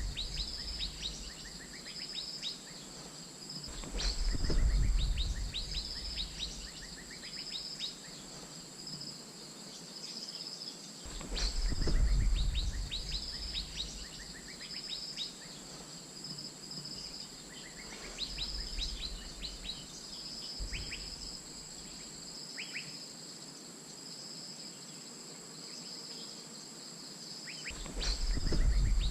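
Asian fairy-bluebird calls: short high notes repeated over and over, used as a calling recording to lure the bird. A steady high-pitched whine runs underneath, and a low rumble swells up three times.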